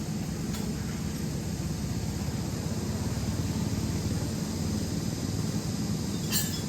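Steady low rumble of a running motor vehicle with a wash of hiss, with a short sharp click near the end.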